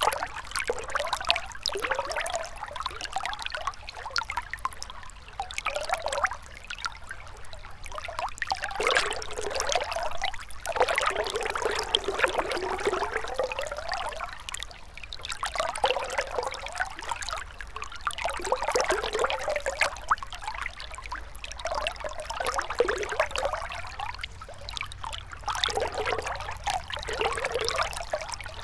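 Gentle river flowing, the sound of the running water swelling and easing every few seconds.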